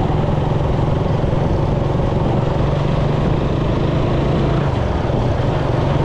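Suzuki Raider 150 motorcycle engine running steadily under way, its note dipping briefly about five seconds in before picking up again.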